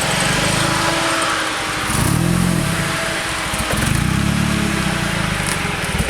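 Car engine running with a deep rumble, revved up and back down twice: briefly about two seconds in, and for longer about four seconds in.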